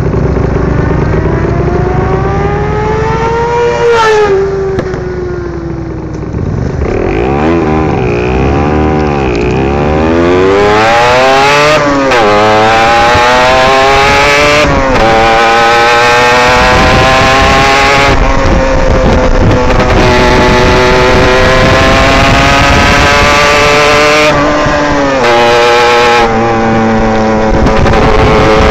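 Derbi GPR 125 motorcycle engine heard from on board. The revs rise and fall a few times as the bike sets off, then climb again and again with brief dips at each gear change as it accelerates along the road.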